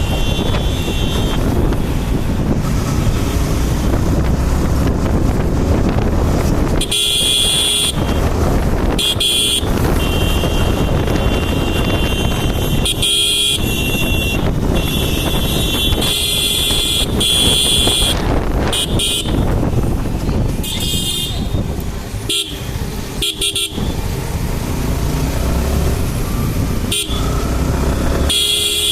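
Road and wind noise from a ride through traffic, with vehicle horns honking over and over from about seven seconds in, in short toots and longer blasts.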